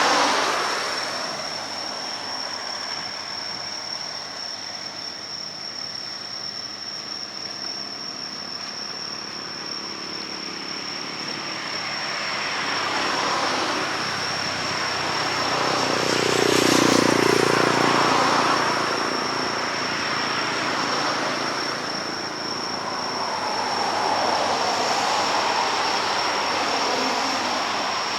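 Road vehicles passing one after another, each swelling and fading away, with a steady high-pitched whine underneath.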